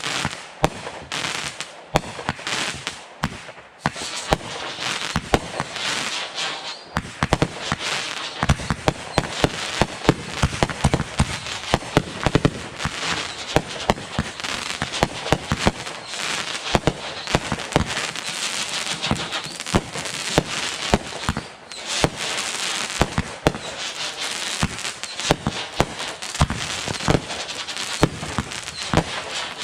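Fireworks going off: a dense, continuous barrage of sharp cracks, pops and bangs over a steady crackle.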